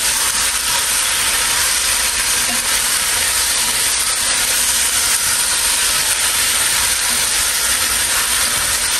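Beef tendon, lemongrass and turmeric sizzling as they are stir-fried in a pot: a steady, even hiss.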